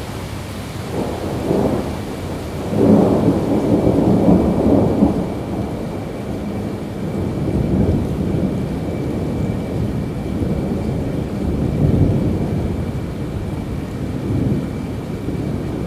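Thunder rolling in several low swells over steady rain, the loudest rumble about three seconds in and lasting a couple of seconds, with softer rolls later.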